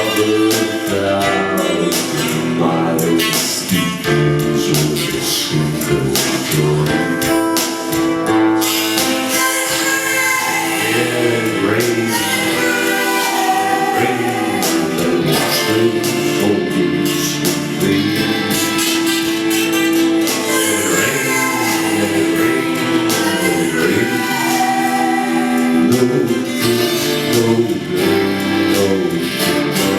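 Live performance of a song, with singing over instrumental accompaniment.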